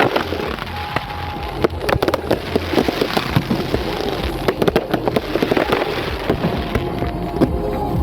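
Many sharp pops and crackles in quick, irregular succession, with music playing underneath.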